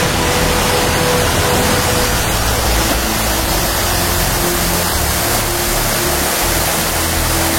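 Steady, loud rush of a waterfall, an even roar of falling water.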